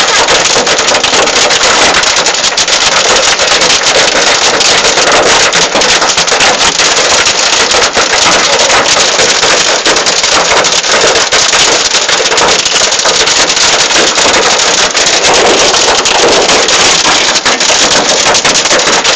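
Heavy rain pouring down, a loud, steady hiss dense with fine patters.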